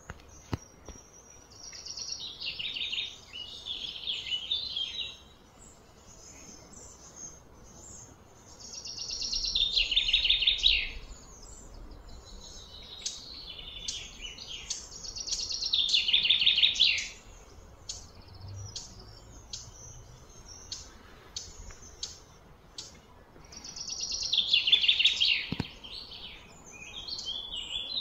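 A bird singing: four loud runs of rapid high notes, each about two seconds long and dropping in pitch, with short chirps scattered between them.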